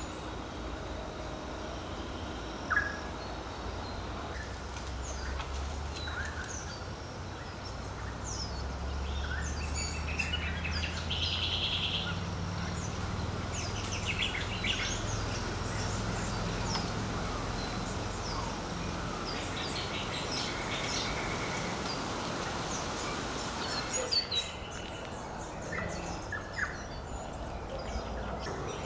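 Several wild birds calling together with many short chirps and whistles, including a fast trill about eleven seconds in, over a low steady rumble.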